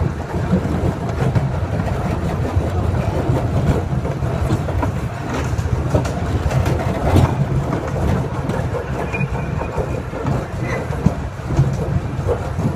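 Miniature ride-on train rolling along its track, heard from aboard: a steady low rumble with occasional clicks of the wheels over the rails.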